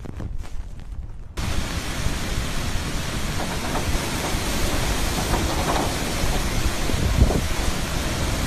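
Storm wind rumbling on the microphone. About a second and a half in, it cuts suddenly to a steady, dense hiss of wind-driven rain from a hurricane.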